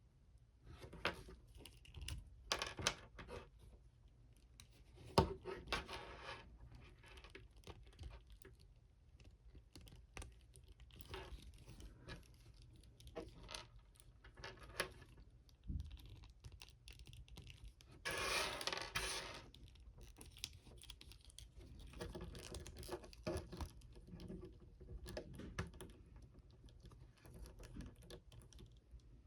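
Quiet handling of plastic Mafex action figures: scattered small clicks and scratches as joints are posed and swappable hands pushed on, with a longer scraping rustle about eighteen seconds in.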